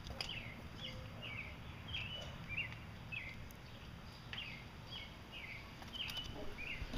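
A bird sings a string of short, falling chirps, about one or two a second with a short break midway, over steady low outdoor background noise, with a few faint clicks.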